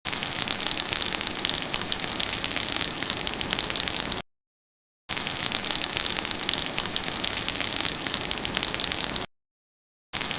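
Steady rain with a dense patter of drops, cutting off abruptly to dead silence for under a second twice, about four seconds in and again about nine seconds in, before starting up again.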